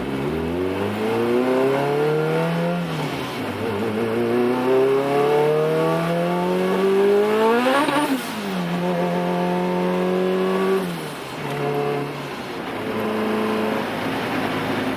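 Turbocharged Honda Civic four-cylinder engine heard from the car under acceleration. It revs up through one gear, shifts about three seconds in, and climbs again to a peak about eight seconds in. Then it drops back to a steady cruise that eases lower near the end.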